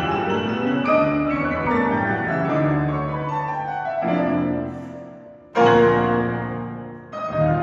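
Two pianos playing, with sustained chords. The music fades, then a loud chord is struck about five and a half seconds in and rings away, and playing resumes near the end.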